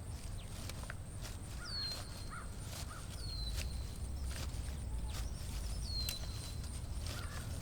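Three clear whistled bird calls, each sliding down in pitch and then holding a steady note, over a steady low wind rumble and scattered sharp clicks.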